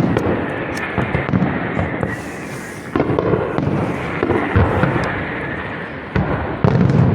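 Aerial fireworks display: a dense, continuous barrage of bursts and crackling, with heavier bangs about three seconds in and again near the end.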